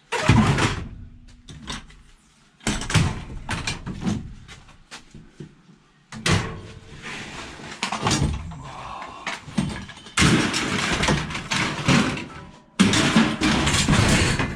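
Pieces of scrap light iron being thrown down one after another: five loud metal crashes, each rattling and dying away over a second or two, a few seconds apart.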